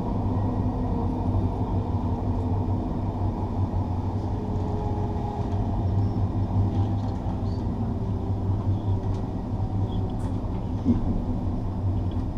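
Passenger train running along the line, a steady low rumble of wheels on the rails, with a small knock about eleven seconds in.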